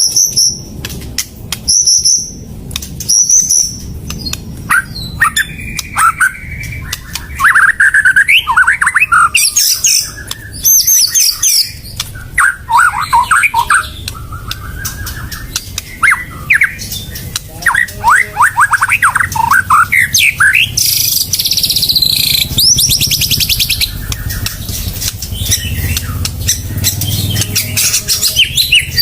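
White-rumped shama (murai batu) singing a loud, varied song of high whistles, fast sweeping note runs and a rapid chattering rattle, with sharp clicking notes between phrases.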